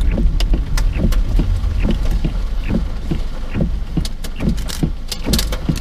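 Inside a car: a steady low rumble, with irregular sharp taps and clicks, several a second, on top.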